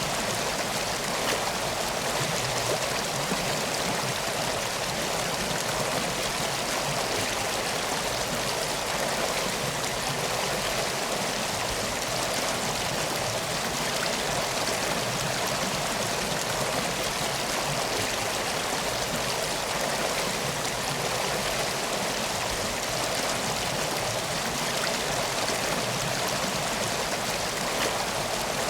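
Steady rushing of flowing river water, an even wash with no breaks or surges.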